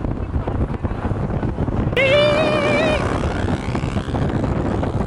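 Wind buffeting the microphone over the rumble of a vehicle driving over rough ground. About two seconds in, a high, wavering tone sounds for about a second.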